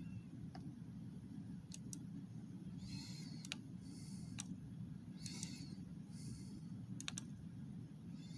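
Faint clicking at a computer: a handful of sharp clicks scattered through, with a few brief soft rustles, over a steady low room hum.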